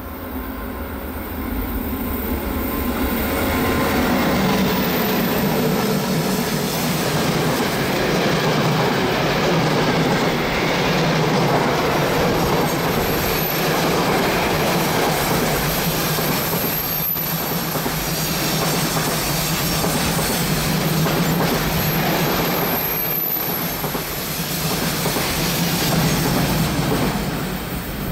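A train running on the Semmering railway: steady rumble of wheels on the rails, building over the first few seconds and then holding loud. Faint high wheel squeals come in a couple of times.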